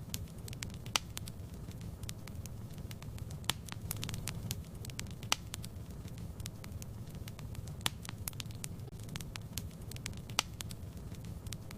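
Wood fire in a fireplace crackling: irregular sharp pops and snaps, several a second at times, over a steady low rumble of the flames.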